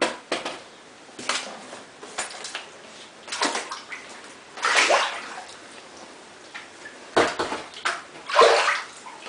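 Sloshing and splashing of someone wading through standing floodwater, a swish every second or so, unevenly spaced.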